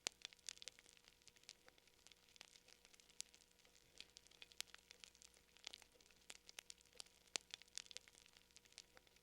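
Fire crackling: faint, irregular pops and snaps, several a second and uneven in strength.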